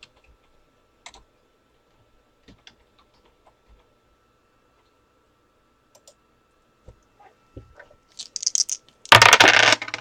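Scattered computer keyboard and mouse clicks as a randomizer is set up, a few light clicks a second apart. Near the end comes a short, loud rushing noise.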